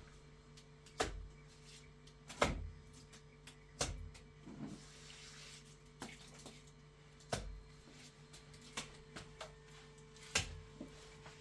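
Irregular knocks and thumps, about five loud ones among smaller clicks, over a steady low hum.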